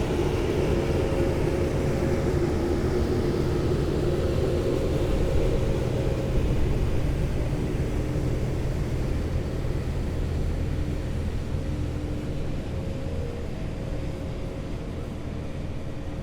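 Heavy military vehicles driving past with a loud, low engine rumble that slowly fades toward the end as they move away.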